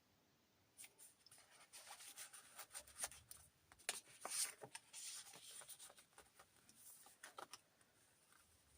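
Faint rustling and crinkling of paper pages being handled and turned in a handmade journal, with small clicks, from about a second in until near the end.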